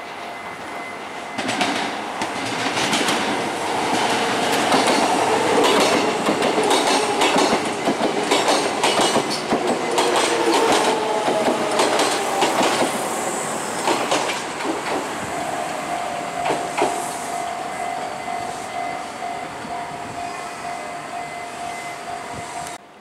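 Kintetsu Minami-Osaka Line electric train running close alongside the platform, its wheels clattering over rail joints with metallic squeal. The sound builds over the first few seconds and then slowly eases off. A steady high whine holds through the later part and cuts off suddenly near the end.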